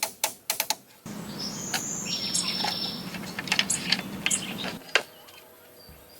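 Hand-tool work: quick sharp taps, about five a second, then a steady rasping scrape lasting about four seconds and ending in a single sharp knock.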